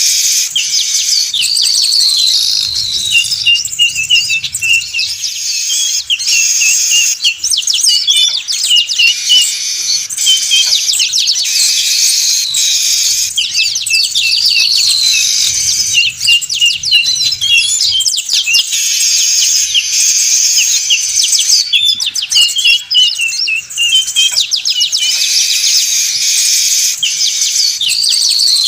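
A chorus of weaver birds chattering and twittering densely at high pitch, without a break. The same stretch of calls comes round again about every 13 seconds, as in a looped bird-lure recording.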